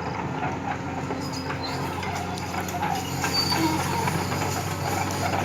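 Caterpillar 336D hydraulic excavator's diesel engine running steadily under load while it moves rock, with scattered knocks and clatter of rock.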